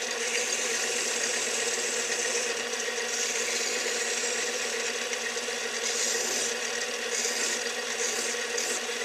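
Metal lathe running steadily while a chamfer is cut on the edge of a small part. The cutting gives a high scraping hiss that swells and fades in patches over the motor's steady hum.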